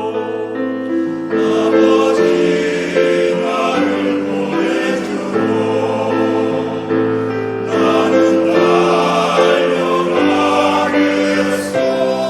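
Church choir singing sustained chords in several parts, the harmony changing every second or so.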